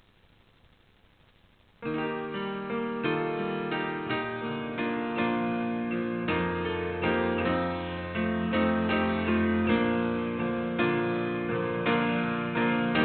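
Near silence for about two seconds, then a piano starts playing a slow piece in chords, with low bass notes held under the struck chords.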